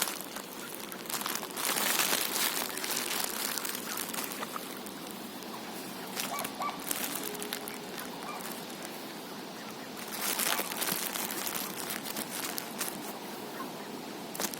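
Ducks splashing and feeding in the water, with a few faint quacks. The splashing comes in louder bursts about two seconds in and again about ten seconds in, over a steady patter of small splashes.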